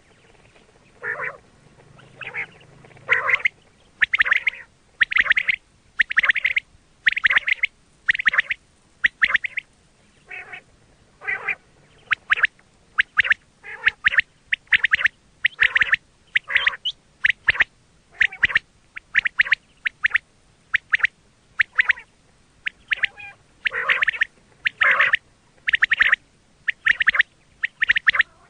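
Quail calling: short, sharp calls in quick clusters, repeated about once a second. It is a quail-call recording of the kind played to lure quail for hunting.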